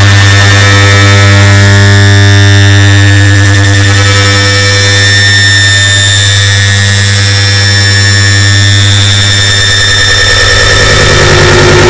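Air conditioner start-up sound stacked many times over into one very loud, distorted mass: a steady low hum with overtones under a dense hiss. It eases slightly in the middle and swells again near the end.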